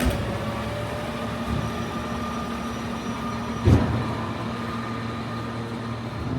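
City street traffic: vehicle engines running steadily, with a sudden loud thump a little past halfway through.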